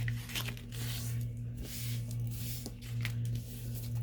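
Paper rustling and sliding as journal pages are turned and handled, with a few short clicks, over a steady low hum.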